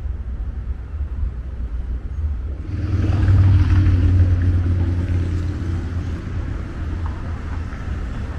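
City street traffic with a steady low rumble; about three seconds in, a motor vehicle passes close by, its noise swelling quickly and then fading slowly.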